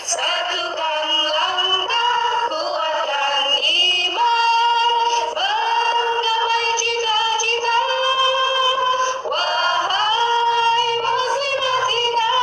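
A song with a woman's singing voice, holding long notes that slide between pitches over accompaniment.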